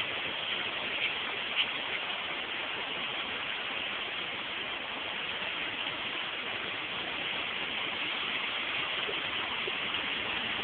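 Steady hiss of heavy rain falling on flooded ground and road, with a couple of brief knocks in the first two seconds.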